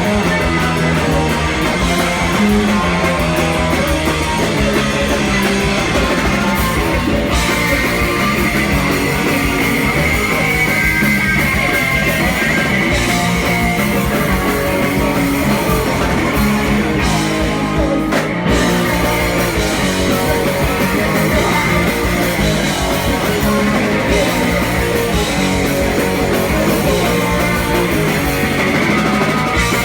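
Live punk rock band playing loud and without a break: distorted electric guitar, bass and drums.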